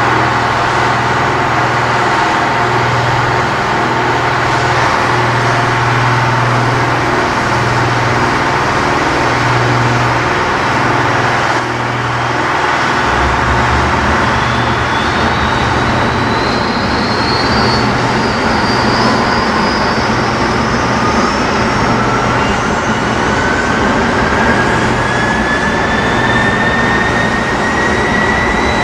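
Kawasaki T-4 jet trainers starting their Ishikawajima-Harima F3 turbofans: a steady, slowly pulsing mechanical hum, then from about halfway the whine of engines spooling up, several tones rising slowly in pitch as they start.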